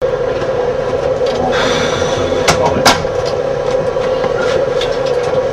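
Train heard from inside the driver's cab: a steady drone of the running train, with a few sharp clicks or knocks, two of them close together about two and a half seconds in.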